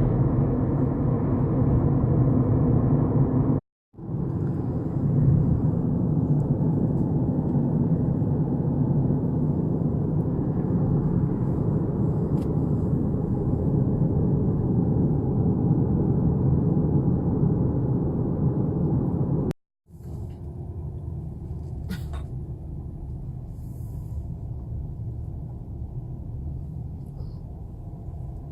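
Steady low rumble of a moving vehicle's engine and road noise, cut off abruptly twice and a little quieter after the second break.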